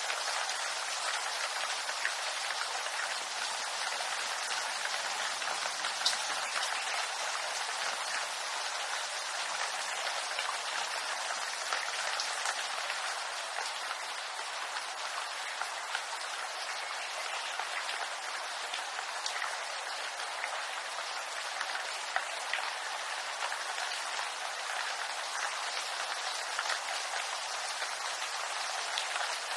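Steady rain falling on bamboo leaves: an even hiss of rain scattered with many small drop ticks, one sharper drop about six seconds in.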